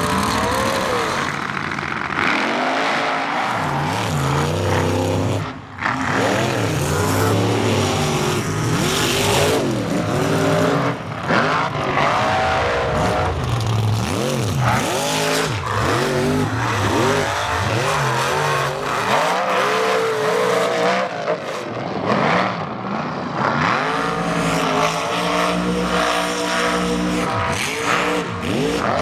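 Mega truck engines revving hard under racing load, their pitch repeatedly climbing and dropping as the drivers throttle on and off, with a brief break about five and a half seconds in.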